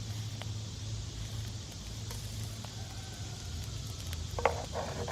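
Eggs sizzling in a cast iron frying pan over a campfire, a steady hiss, with a click and a short scrape a little before the end.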